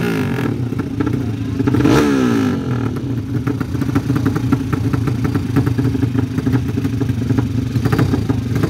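Racing motorcycle engines revving hard, with the pitch sweeping up and down as bikes pass about two seconds in. After that an engine keeps running steadily with a dense, rattly crackle.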